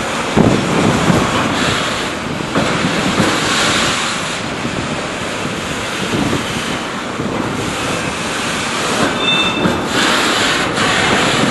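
Freight train wagons rolling past: a steady rumble and clatter of wheels on the rails, with a brief high squeal about nine seconds in.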